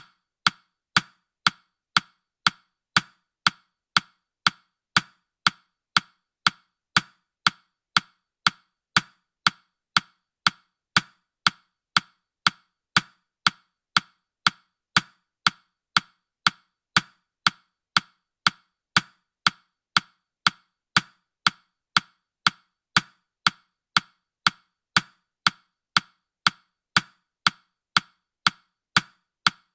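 Countdown timer's ticking sound effect: short, sharp, clock-like clicks at an even pace of about two a second.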